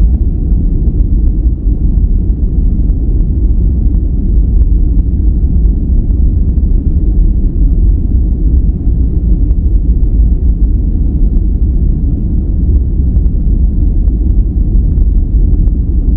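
Steady, unbroken relaxation noise that is deep and rumbling, weighted to the low end with almost no high hiss, closer to brown noise than to true white noise.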